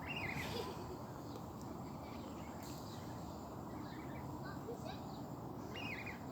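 Birds chirping in short, high calls, a cluster near the start and another near the end, over a steady low background rumble.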